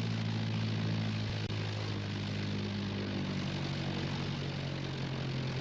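Light propeller plane's engine droning steadily, its tone shifting slightly about three seconds in.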